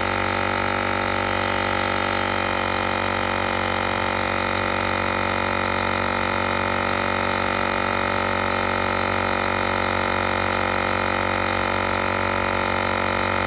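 Cordless battery-powered portable air compressor running steadily, inflating a tyre that was down to 6 psi; a constant buzzing drone with no change in pitch or level.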